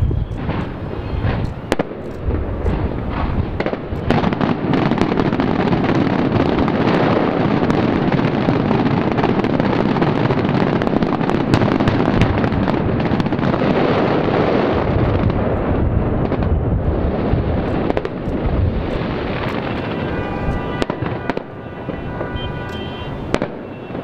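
Aerial fireworks barrage: a dense, continuous crackling rumble packed with sharp bangs from shells and crackling effects, thinning out after about fifteen seconds into scattered reports.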